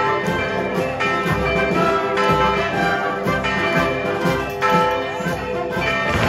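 Church bells ringing a festive peal: many overlapping ringing tones with repeated strikes about once or twice a second.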